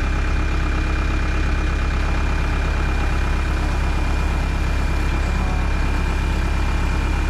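Diesel skid steer engine idling steadily while it warms up, with a thin steady high whine over the rumble.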